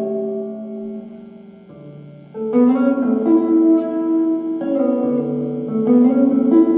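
Electric guitar chords played through a Pioneer SR-202W spring reverb tank into an amplifier, each chord ringing on and fading slowly in the reverb. The first chord dies away, a new one is struck about two and a half seconds in, and two more follow.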